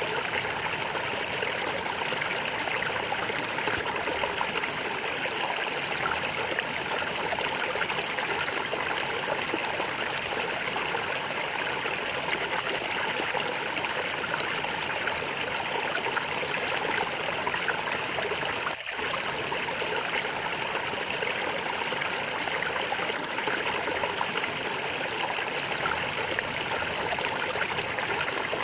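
Stream of water gurgling and trickling steadily, with a split-second dropout about two-thirds of the way through.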